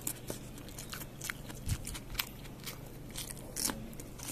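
Close-up eating sounds: chewing with irregular crunchy clicks, over a steady low hum.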